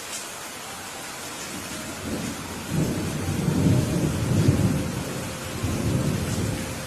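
Steady rain with a long roll of thunder that builds about two seconds in, swells twice and dies away near the end.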